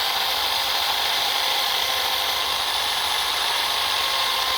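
Power drill motor running at a steady speed with a high whine.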